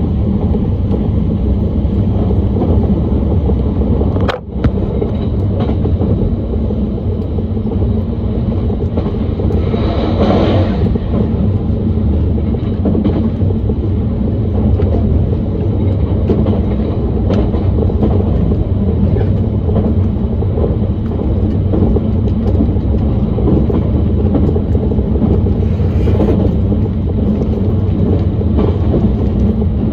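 Running noise of a JR Kyushu 883 series 'Sonic' limited express electric train heard from inside the car: a steady rumble of wheels on rail. A sharp click comes about four seconds in, and a brief hiss about ten seconds in.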